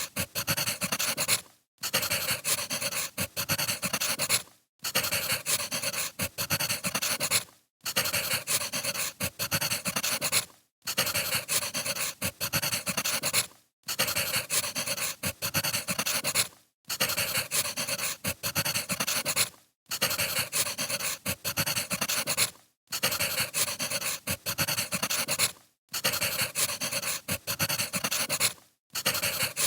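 Wood fire crackling and popping, played as a short loop: each stretch of about three seconds breaks off in a brief gap of silence before it starts again.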